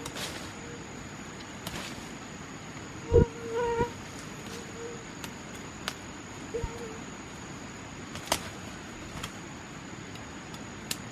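A steady, high-pitched insect drone, with a scattering of sharp knocks and clicks, the loudest about three seconds in.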